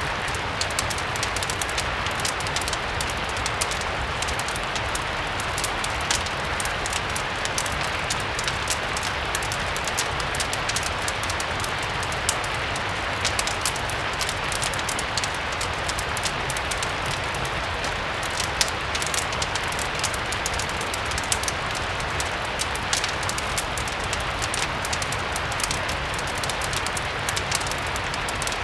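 Steady rain mixed with a crackling wood fire: an even hiss with many small sharp pops scattered throughout.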